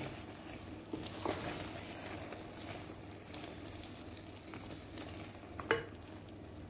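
Thick achari chicken curry sizzling quietly as it fries in a metal karahi while a wooden spoon stirs it, with a few light knocks of the spoon against the pan; the sharpest comes near the end.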